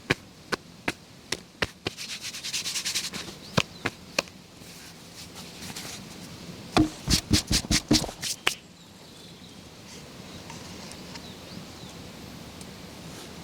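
Wood being worked with a hand tool: a run of sharp knocks, a short scraping, then a quick burst of about eight louder knocks some seven seconds in, after which only a faint steady outdoor hiss remains.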